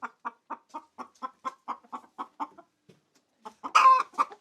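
A hen clucking in a quick, even series, about four clucks a second, then a pause and one loud, drawn-out squawk near the end. The pattern is typical of a hen's egg song after laying.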